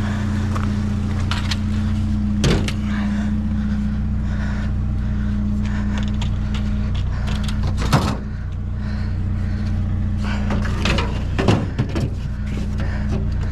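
Vehicle engine idling with a steady, unchanging hum, with a few sharp knocks and clunks, one about two and a half seconds in, one about eight seconds in, and several near the end.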